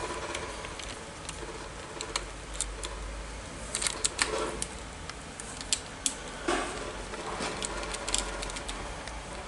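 Scattered metallic clicks and knocks of steering-column parts, screws and hand tools being handled and fitted together during reassembly, busiest about four seconds in and again in the second half.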